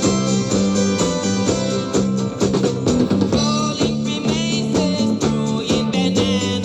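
Early-1970s pop band recording: guitar and drum kit playing a steady beat under sustained pitched notes.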